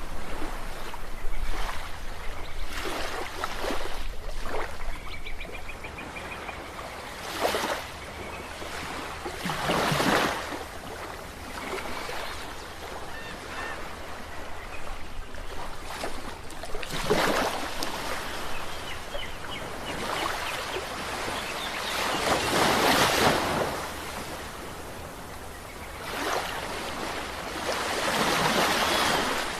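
Ocean waves surging and washing onto the shore, with a louder breaker every few seconds over a steady background wash.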